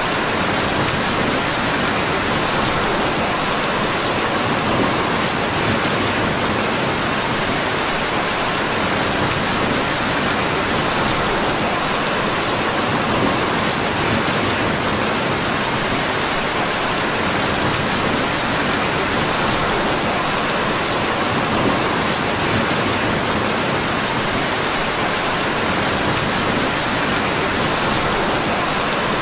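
Steady, even rainfall, with a few faint ticks scattered through it.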